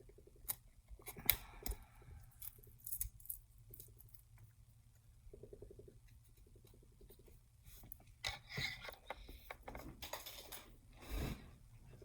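Scattered light clicks, taps and short scrapes of small repair tools and phone parts being handled on a workbench, with a louder stretch of scraping near the end.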